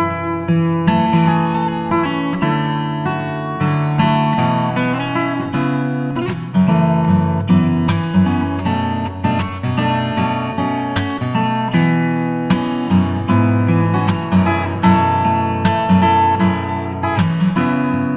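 Background music: acoustic guitar picked and strummed, with many quick plucked notes at a steady level.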